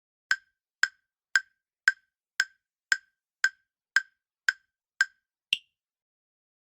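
Countdown timer sound effect: ten short, clock-like ticks about two a second, then a final higher-pitched tick near the end, timing the answer pause of a quiz question.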